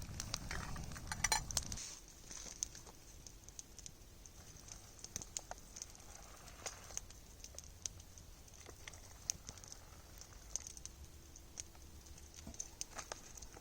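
Campfire crackling faintly, with irregular small pops and snaps of burning wood. A low rumble fills the first couple of seconds, then stops.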